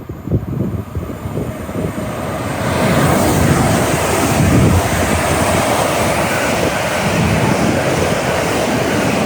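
Train running through the station without stopping: a rush of wheel and air noise that swells from about two and a half seconds in and stays loud and steady.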